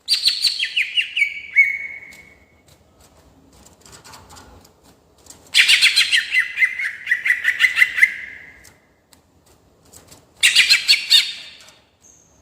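Cucak ijo (green leafbird) singing in its rolling style: three loud bursts of fast, trilled notes. The first steps down in pitch, the second and longest slides down through rapid trills, and a short dense burst comes near the end.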